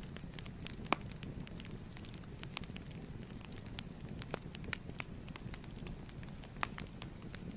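Wood fire crackling in a fireplace: a steady low rumble of the flames with frequent irregular sharp pops and snaps, one louder pop about a second in.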